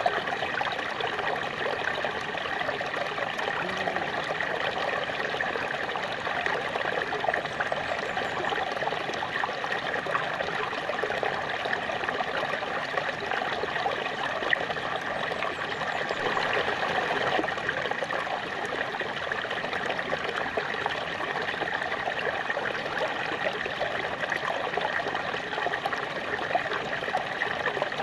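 Small waterfall: water splashing and trickling steadily over rocks, a continuous bubbling rush.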